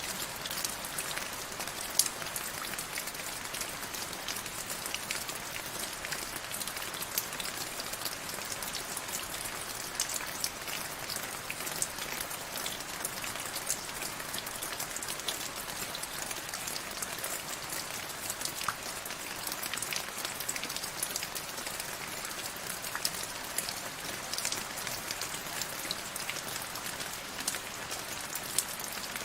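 Steady rain, a constant hiss of falling rain with many individual drops ticking sharply through it.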